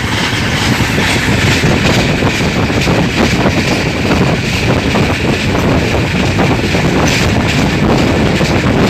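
Swatantrata Senani Superfast Express running through at about 110 km/h: a steady, loud rush of train noise with wheel clatter, and wind buffeting the microphone.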